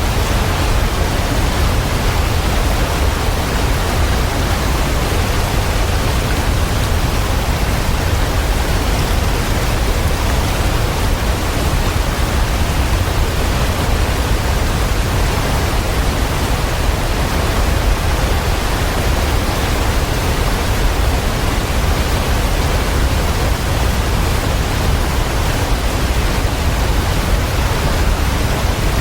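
Waterfall rushing steadily: an even, unbroken wash of falling-water noise, heaviest in the low end.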